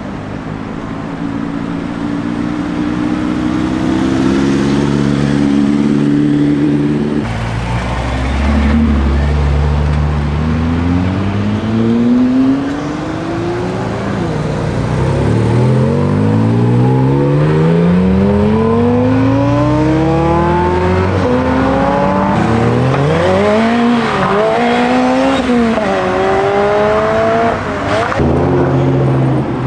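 Modified car engines accelerating hard, one after another, each pitch climbing as the revs rise. Near the end an engine is revved up and down in quick blips.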